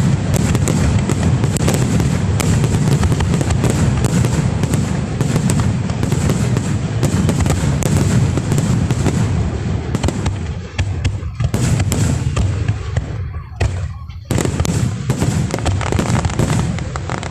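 Aerial fireworks display going off in a dense barrage of overlapping bangs. It thins for a moment about two-thirds of the way through, then fills in again.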